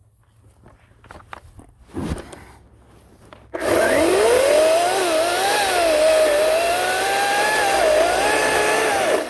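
Ryobi 18-inch 40-volt battery chainsaw spinning up with a rising whine about three and a half seconds in, then cutting through wood easily, its pitch dipping and recovering under load, and stopping just before the end. A light knock comes about two seconds in, before the saw starts.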